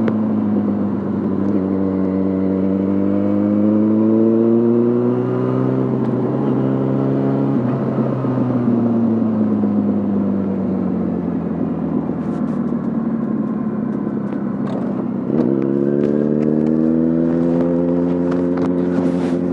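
Yamaha Fazer 600's inline-four engine through a handmade exhaust, under way: revs climb at first, drop twice at gear changes, and fall away as the throttle closes. About three-quarters through the throttle opens again and the revs rise steadily, with scattered faint clicks over the last few seconds.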